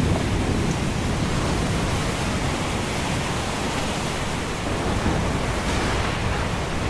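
Steady roar of ocean surf, swelling slightly near the end.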